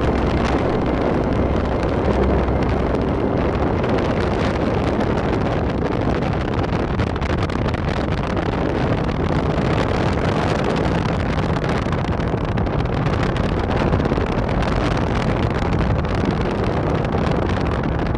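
Strong wind rushing and buffeting over the microphone as a steady, loud rush, with the rumble of a moving vehicle beneath.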